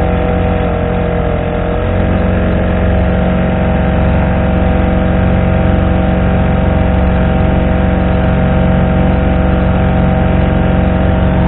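Honda GX35 35cc four-stroke outboard engine on a kayak running steadily at about three-quarter throttle under load, holding the boat at about 5 mph. Its pitch dips slightly and recovers about two seconds in.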